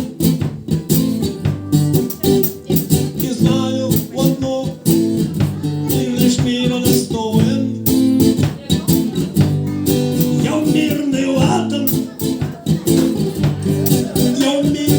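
Guitar strummed in a steady rhythm, playing chords as the accompaniment of a live rock song.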